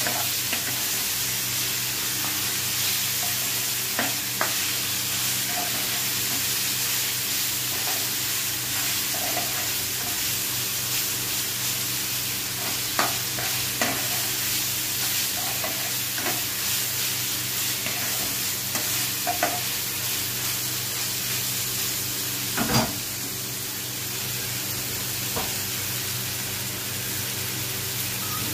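Chicken and onions sizzling steadily in a nonstick frying pan as they are stirred and scraped with a spatula, which taps against the pan now and then, most sharply a little before the end. A steady low hum runs underneath.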